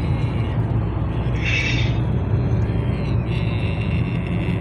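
Car in motion: a steady low rumble of engine and road noise, with a brief higher hiss about a second and a half in.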